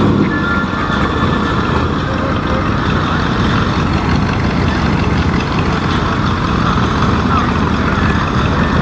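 A car engine running steadily at idle, loud and close.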